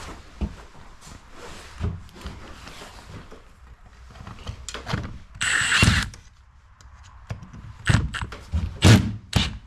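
Scattered knocks, clunks and clicks of tools and hardware being handled, with a brief louder rattle about five and a half seconds in and a quick run of sharp knocks near the end.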